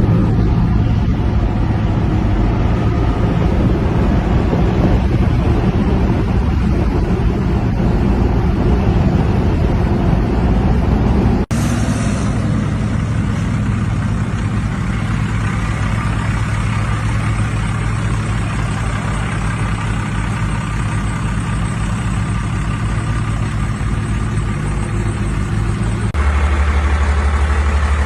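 Truck engines running in three back-to-back clips, the sound changing abruptly about a third of the way in and again near the end.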